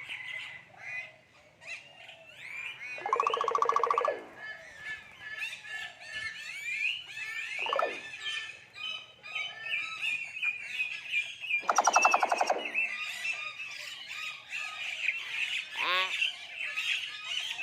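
Common hill myna calling: a running stream of short whistles and chirps, broken by two loud, harsh buzzy squawks about three seconds in and again about twelve seconds in, plus a couple of quick downward-sliding whistles.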